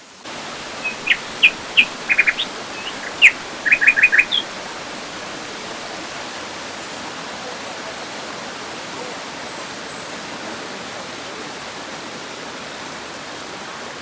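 Steady rush of a waterfall, with a bird chirping a quick run of short, high notes in the first few seconds.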